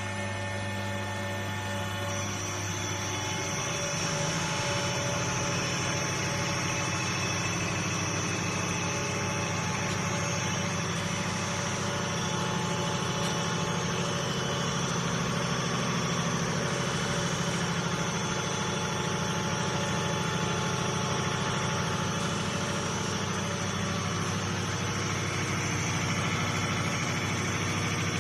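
CR708 common rail test bench running: its drive motor hums steadily, getting louder and changing pitch over the first few seconds as it comes up to speed, then holding steady with a faint high whine.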